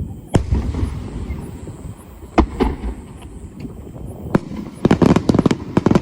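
Aerial fireworks bursting: single sharp bangs about a third of a second in, near two and a half seconds and past four seconds, then a rapid string of cracks near the end.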